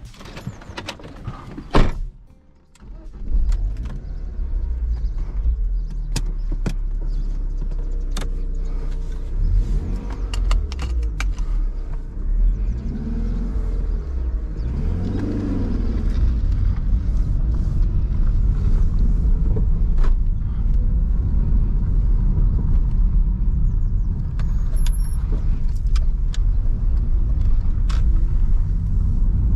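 A loud thump about two seconds in, then the BMW 316i E46's four-cylinder petrol engine starts and runs. Its pitch rises and falls through the gears as the car pulls away, with scattered light clicks in the cabin.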